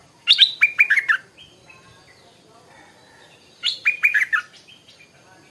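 Stripe-throated bulbul singing two short phrases about three seconds apart, each a quick run of clear downslurred notes.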